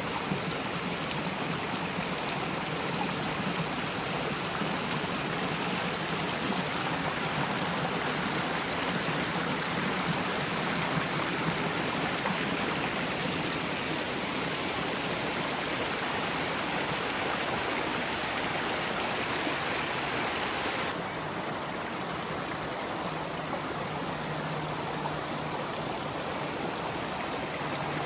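Rushing creek, running high after about an inch of overnight rain: a steady, even roar of water. About three quarters of the way through, the rush suddenly turns softer and duller.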